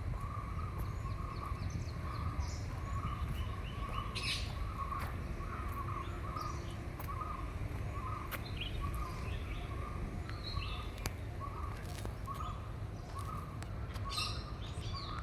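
Park birdsong: one bird repeats a short note evenly, about one and a half times a second, while other birds chirp higher and more sparsely, over a steady low background rumble.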